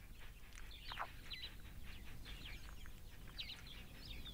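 Faint bird calls: scattered short high chirps, with one falling whistle about a second in.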